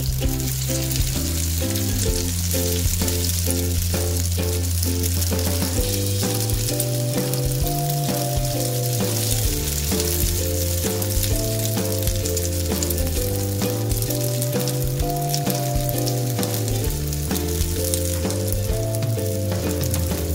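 Egg and sweet corn omelette batter sizzling steadily as it fries in a nonstick pan, with a spoon scraping and stirring through it. Background music plays underneath.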